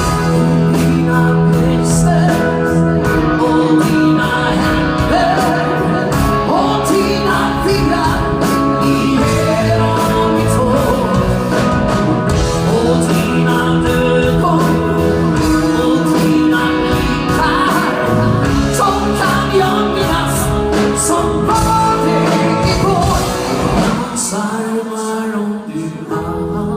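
Band playing a pop-rock song with electric guitar and a singing voice over bass and drums; the bass and drums drop out about 24 seconds in.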